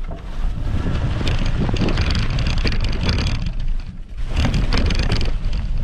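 Wind buffeting the microphone as a low rumble, with long stretches of crackling and rustling from e-bike tyres rolling over leaves and twigs on the forest floor, easing briefly about four seconds in.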